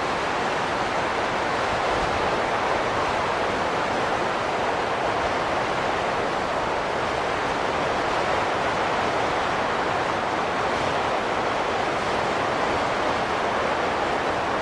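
Wind blowing steadily as an even rushing noise, with no gusts or breaks.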